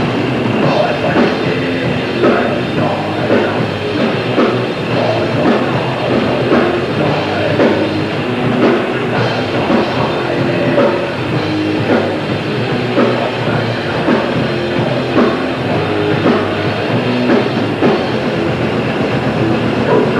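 Loud live grindcore band playing fast: distorted guitars and bass over rapid drumming. The music cuts off sharply at the end of the song.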